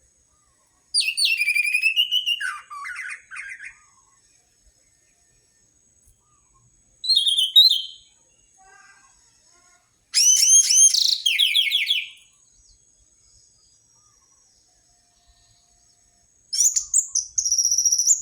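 Orange-headed thrush (anis merah) singing: four separate phrases of quick, sliding whistled notes, each a second or two long, with pauses of a few seconds between them.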